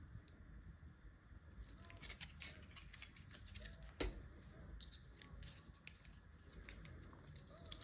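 Faint handling of toys and packaging: scattered small taps and crinkles, with one sharper tap about four seconds in.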